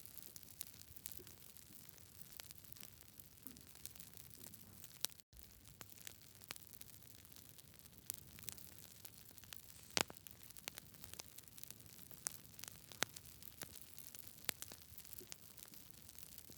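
Wood fire crackling in a fireplace: irregular sharp pops and snaps over a soft steady hiss, with the loudest pop about ten seconds in. A split-second gap in the sound about five seconds in.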